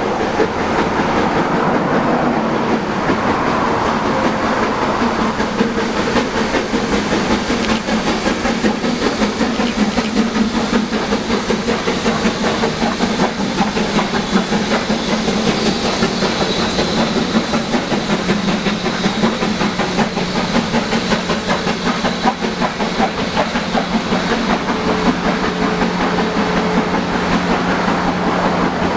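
Steam-hauled excursion train rolling along the track: a steady rumble of wheels on rail with fast clicking and some hiss.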